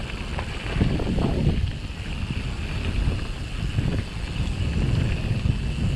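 Mountain bike descending a rough trail: wind rushing over the action camera's microphone with a steady low rumble of tyres on the ground and faint rattling ticks from the bike.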